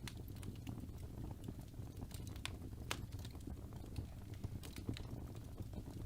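Fire burning in a fireplace: a low, steady rumble of flame with scattered sharp crackles and pops, a few louder snaps among them.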